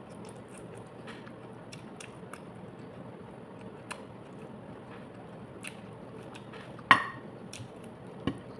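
Close-up eating sounds: chewing pan-grilled chicken and soft mouth and lip clicks, with a sharp click about seven seconds in and a smaller one just before the end.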